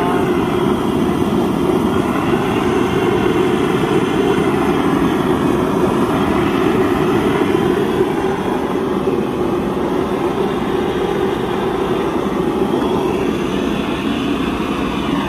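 A gas torch flame roaring steadily, played over the freshly painted stove to dry the paint. The rush wavers slowly in tone.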